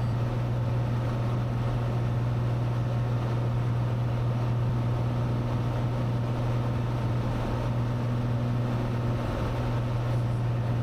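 Cessna 182's piston engine and propeller droning steadily in cruise flight, heard from inside the cockpit.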